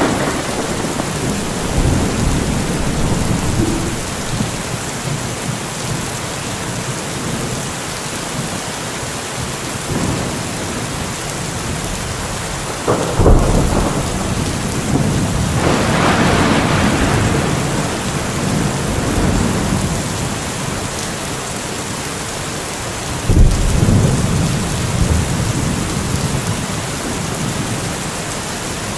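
Thunderstorm: steady heavy rain with rolling thunder. Two sharp claps of thunder break in, a little before halfway through and again about four-fifths through, each trailing off into a low rumble, with a longer rumble swelling between them.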